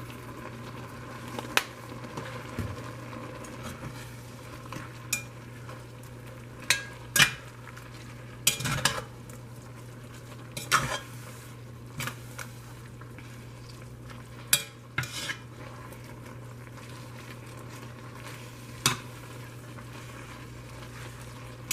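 Metal spoon stirring noodles in a pot of simmering liquid, clinking and scraping against the pot in irregular strokes, over a steady background hiss and low hum.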